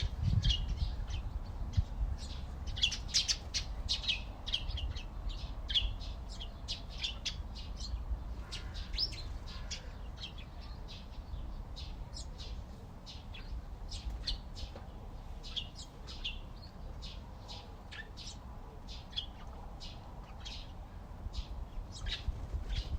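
Songbirds chirping: a steady stream of short, high chirps, several a second, from more than one bird, over a faint low rumble.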